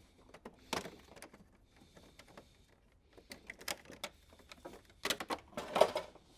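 Scattered clicks and light knocks of plastic bumper parts and connectors being handled, with a louder cluster of knocks and scraping about five seconds in.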